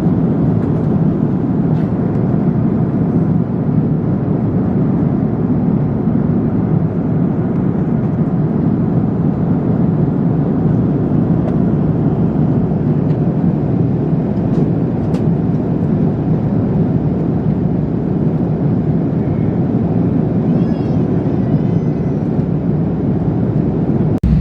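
Steady roar of a jet airliner heard from inside the passenger cabin: engine and airflow noise, even and low-pitched, with a couple of faint clicks.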